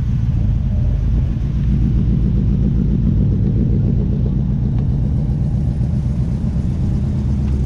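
Engines of vehicles leaving a car show rumbling steadily as they drive slowly past at low speed.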